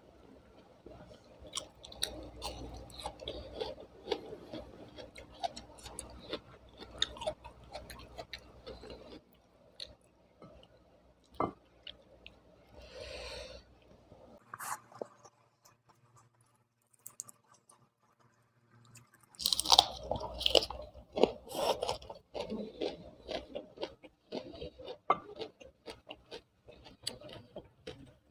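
Close-miked chewing of rice with fried tempeh and sambal eaten by hand: wet chewing with small crisp crunches, a near-silent pause in the middle, then a louder run of crunching.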